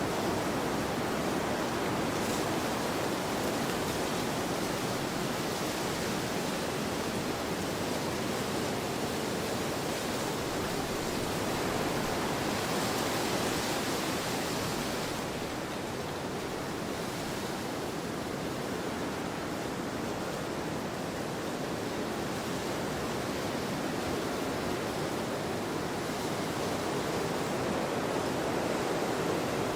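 Wind blowing across an open field: a steady rushing noise with no distinct events, swelling a little and easing slightly about halfway through.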